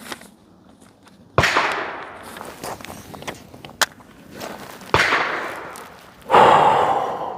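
Three gunshots at an outdoor pistol range, a few seconds apart, each sharp crack fading away over a second or more.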